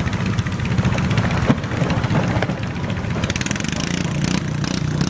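Garden tractor's small engine running steadily, with a rapid even firing pulse.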